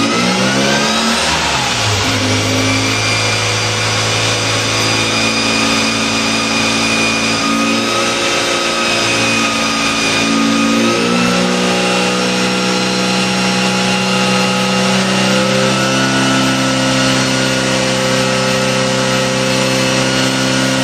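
Classic Mini's Weber-carburetted A-series engine running on a rolling road. The revs drop at the start, then are held steady, stepping to a new steady pitch about eight seconds in and again about eleven seconds in.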